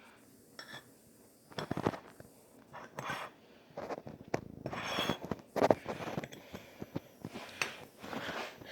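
A utensil clinking and scraping against a dish in short, irregular knocks while the freshly microwaved cookie is being cut into or broken for a taste.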